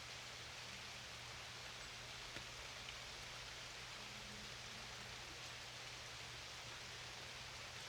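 Steady rain falling, an even soft hiss with a few separate drops ticking now and then.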